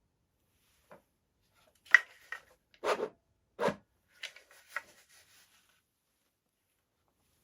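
Handling noise from airsoft gun parts being worked on: a sharp click about two seconds in, then a few knocks and rubbing scrapes over the next three seconds.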